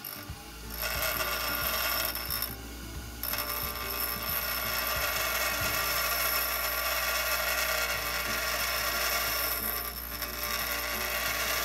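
Bench grinder motor running with a steady hum while a high-speed steel lathe tool bit is pressed to the grinding wheel, taking material off the top of the bit. A short grind starts about a second in, breaks off briefly, then a longer grind runs for several seconds before easing off near the end.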